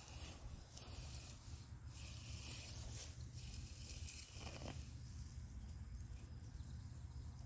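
Crickets trilling steadily in a high, faintly pulsing tone, over a soft hiss of rustling soil and plants from hand-digging potatoes.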